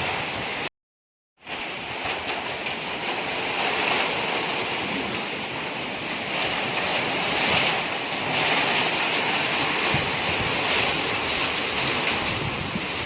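Strong storm wind with rain, a steady rushing noise that swells and eases in gusts. It cuts out completely for under a second near the start.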